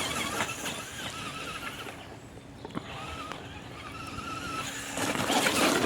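Electric motor of a Traxxas Slash 2WD RC truck whining as it drives, its pitch wavering with the throttle, at first faint and then louder near the end as the truck comes closer.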